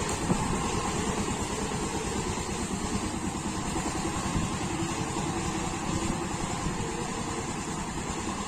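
Power tiller's engine running steadily, with a rapid, even beat of firing pulses.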